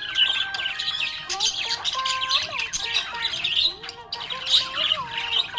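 Budgerigars chirping and chattering in a fast, continuous warble, over background music with held, gliding notes.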